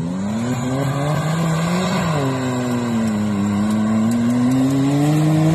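Off-road vehicle's engine accelerating. Its pitch rises for about two seconds, drops abruptly, then holds steady and slowly climbs again.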